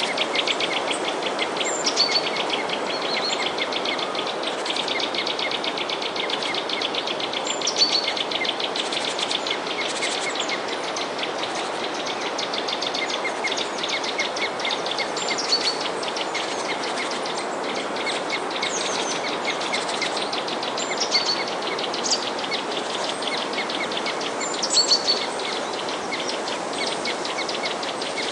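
Small birds chirping and twittering, with short high chirps scattered throughout, over a fast, continuous ticking trill and a steady even hiss.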